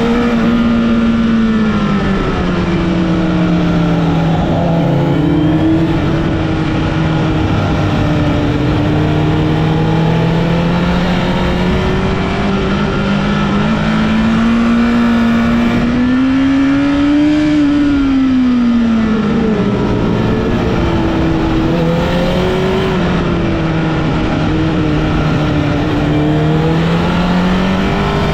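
Honda CBR1000RR (SC77) inline-four motorcycle engine heard while riding, its note rising and falling with the throttle over a steady rush of noise. It climbs to its highest pitch about two-thirds of the way through, then falls away.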